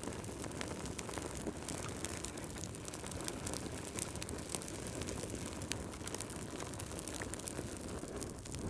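Wood fire crackling in a fireplace: a steady low rush of flames with frequent sharp pops and snaps.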